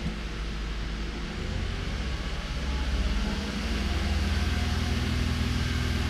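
Toyota Avalon V6 engine running at held revs, misfiring on cylinders 1 and 2. Its note steps up slightly about a second in and again near three seconds.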